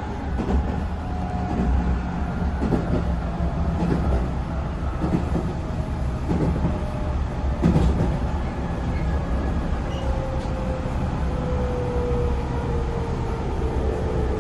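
311-series electric multiple unit running, heard from inside the car: a steady rumble of wheels on rail, with a motor whine that falls slowly in pitch as the train slows and a single knock about eight seconds in.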